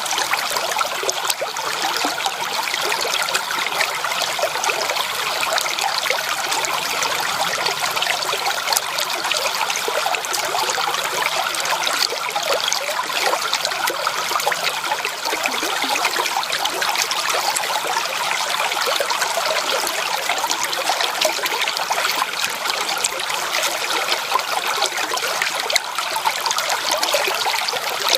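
Shallow creek water trickling and babbling steadily over stones, an even splashing patter with no pauses.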